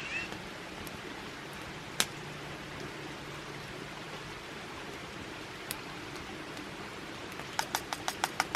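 Steady outdoor background hiss, with a single sharp click about two seconds in and another past the middle, then a quick run of about ten sharp clicks near the end, some six a second.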